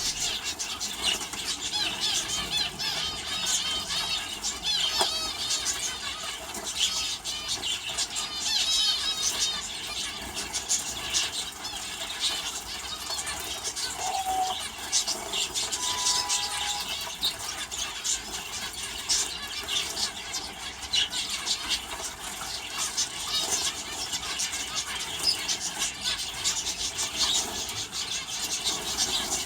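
Aviary finches and canaries chirping and twittering in high quick calls, with many short fluttering and splashing sounds as they bathe in a water dish.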